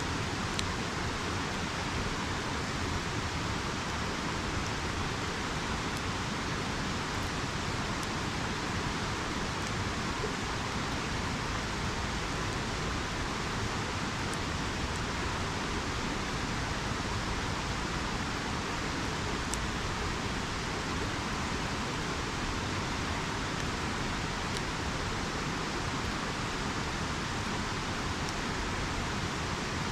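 A river's steady rush of flowing water, with a few faint, sharp crackles from a wood campfire scattered through.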